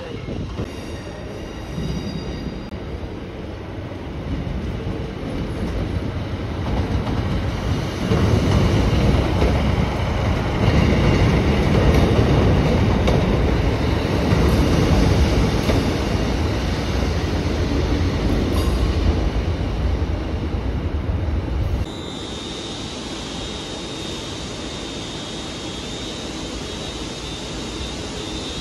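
ScotRail multiple units running on the rails: a train passes close by with wheels rumbling and squealing, loudest from about a third of the way in. About three-quarters of the way through, the sound cuts to a steadier, quieter hum with a thin high whine from a ScotRail Class 380 electric unit at the platform.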